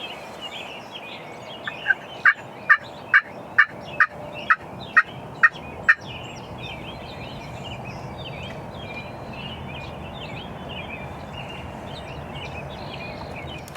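A wild turkey yelp sequence: about ten short, loud, evenly spaced notes, a little over two a second, lasting about four seconds. Small songbirds chirp throughout over a steady outdoor background hiss.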